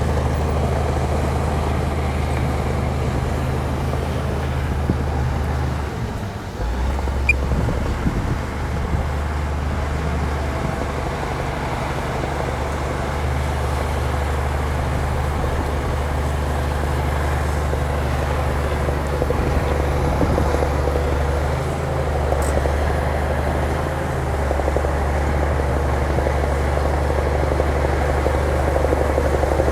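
Bulldozer's diesel engine running steadily at working revs, a deep drone that dips briefly and changes note about six seconds in before settling again.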